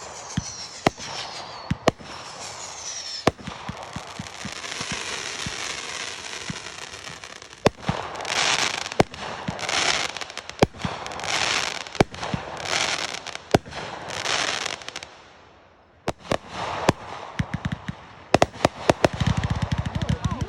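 Consumer fireworks going off: sharp bangs, with whistles falling in pitch in the first few seconds, then a long crackling hiss. A series of pulsing crackle bursts comes about every second from midway. Near the end there is a rapid string of firecracker-like pops.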